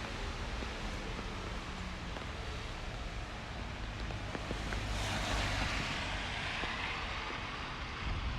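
Rainy city street ambience: a steady hiss of rain and wet traffic, with the tyres of a vehicle hissing past on the wet road about five seconds in, swelling and fading.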